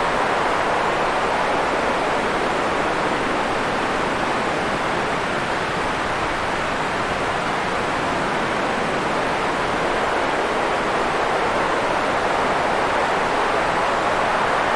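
Steady white noise: an even, unchanging hiss, strongest in the middle pitches and thinner in the highs.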